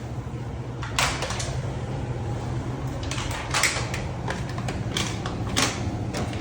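Scattered sharp clicks and knocks of things being handled and set down, a few at a time, over a steady low hum.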